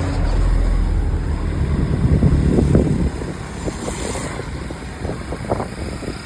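Motorcycle engine running as the bike rides along, with wind buffeting the phone's microphone. The low engine drone eases off about halfway through.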